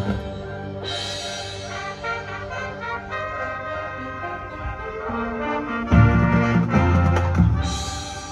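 High school marching band playing, brass holding sustained chords, with the full band coming in louder about six seconds in.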